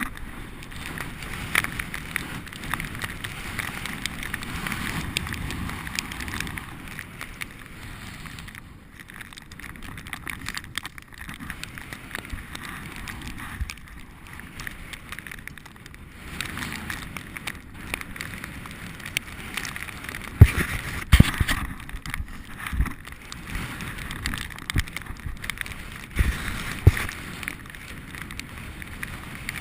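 A bicycle being ridden over snowy ground: steady noise of the tyres and of wind on the microphone, with a few sharp knocks about two-thirds of the way through.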